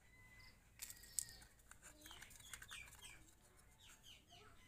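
Near silence, with faint bird chirps in the background, a run of short falling notes, and a few light clicks about a second in.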